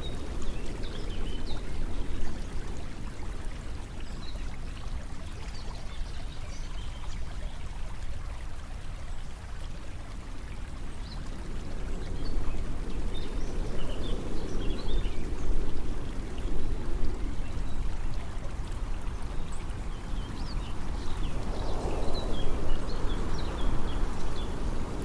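Ambient nature soundscape of flowing water over a steady low rumble, with scattered short high chirps throughout. The water grows louder about halfway through and again near the end.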